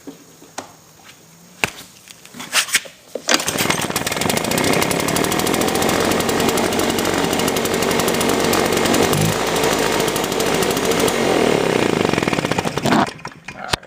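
Husqvarna 350BT backpack leaf blower's two-stroke engine cold-starting. A few short clicks from the pull start come first, then about three seconds in the engine catches and runs loud and fast along with the fan's rush. It cuts off suddenly near the end.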